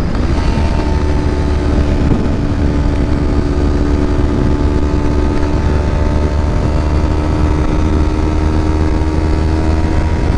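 Motorcycle engine running at steady revs while riding, a constant engine note over a heavy low rumble.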